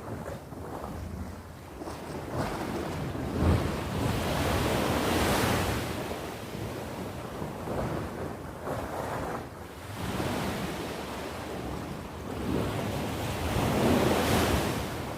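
Sea waves breaking and washing onto the shore, the surf swelling and falling back three times, loudest near the end.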